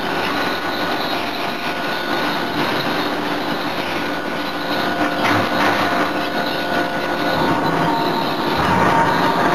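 Steady forge-shop machinery noise with a few faint whining tones and a soft knock about five seconds in.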